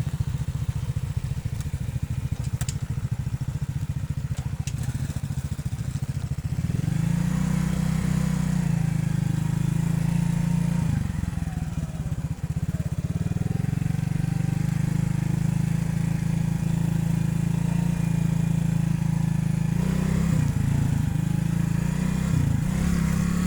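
Motorcycle engine running under way, getting louder about a third of the way through. The revs rise and fall a few times later on.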